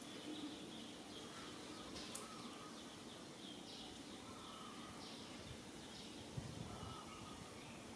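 Faint outdoor background with short, repeated bird-like chirps every second or so, and a soft knock about six seconds in.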